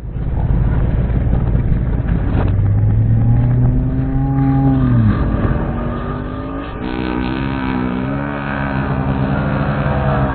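Two-stroke gasoline engine of a 1/5-scale HPI Baja RC truck running and revving. Its pitch climbs for a couple of seconds, drops sharply about halfway through, then holds steadier with small rises and falls.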